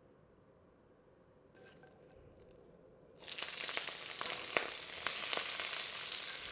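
Quiet for about three seconds, then a sudden sizzle as chopped spring onions and sliced red onion drop into hot vegetable oil in a wok, frying steadily with sharp spattering crackles.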